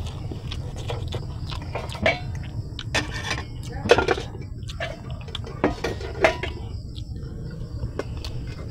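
Eating sounds close to the microphone: chewing and wet mouth smacks with a few sharp clicks, over a steady low hum.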